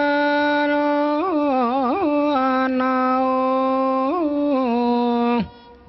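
Solo voice singing the Thai royal barge chant (he ruea) in long held notes, wavering through ornamented turns twice, then sliding down and stopping near the end.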